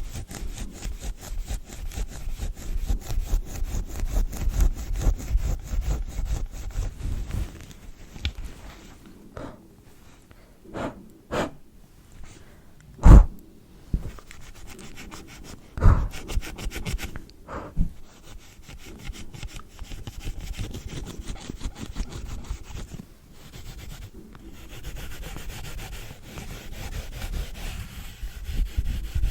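A brush rubbing quickly back and forth over a device in close-miked ASMR cleaning strokes. The brushing stops after about seven seconds. A few separate taps follow, the loudest about halfway through, and then softer, slower rubbing resumes.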